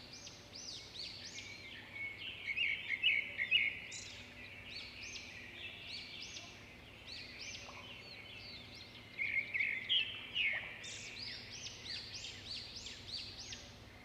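A chorus of small birds chirping and calling, many short quick notes overlapping, with louder busier bursts a few seconds in and again near ten seconds.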